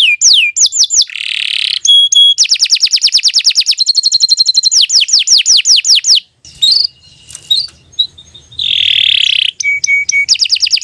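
Domestic canary singing. Fast rolls of repeated down-sliding whistled notes alternate with harsh buzzy phrases and short held notes, with a brief quieter break about six seconds in.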